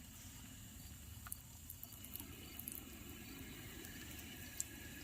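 Camping gas stove burner running steadily with a low rushing hiss after being turned up, growing a little fuller about two seconds in, with a few faint ticks. Steady insect trilling sits high in the background.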